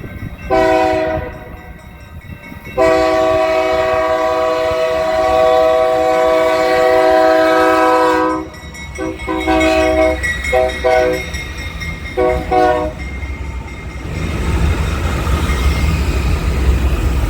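A BNSF freight locomotive's multi-note air horn sounds a short blast, then a long blast of about five seconds, then a string of short toots. It is a horn salute that almost every crew gives to the people at the depot. Near the end the low rumble of the diesel locomotives passing takes over.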